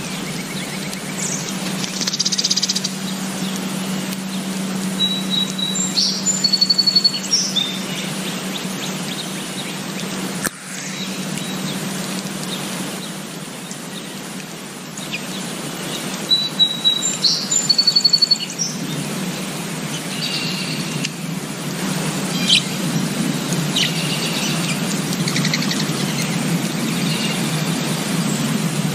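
Small birds chirping and singing over a steady low background hum, with a burst of song about six seconds in, a matching burst at about seventeen seconds, and scattered chirps after that.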